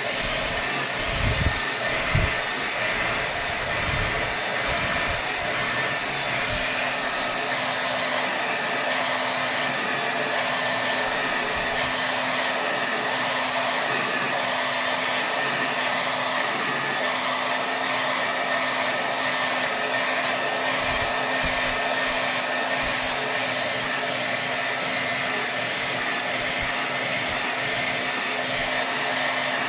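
Hair dryer running steadily at its maximum setting, a constant rush of air with a steady hum, and a few low bumps in the first couple of seconds.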